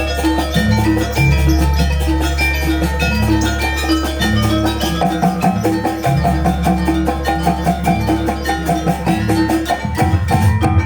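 Live Banyuwangi gamelan music for jaranan: rapid rows of struck metal keys ring over drum strokes and a deep, sustained bass, in a steady fast beat.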